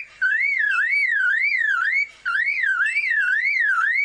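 Superb lyrebird mimicking a car alarm: a loud wailing tone that sweeps up and down about twice a second, in phrases broken by two short gaps.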